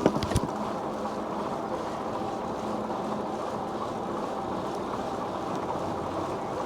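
Steady riding noise from a moving e-bike: wind rushing over the body-worn microphone and tyres rolling on the trail, with a faint steady hum. Two or three sharp knocks sound right at the start, as from a bump.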